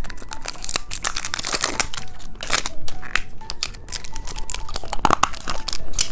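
Plastic candy packaging crinkling and tearing as it is handled and opened, with a dense run of irregular crackles.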